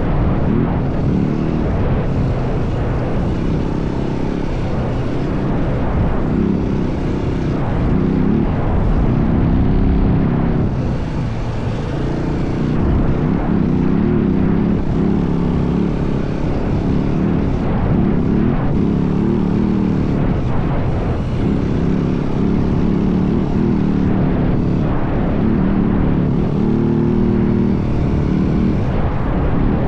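Yamaha WR450F dirt bike's single-cylinder four-stroke engine running while riding, its revs rising and falling with the throttle and easing off briefly about eleven seconds in.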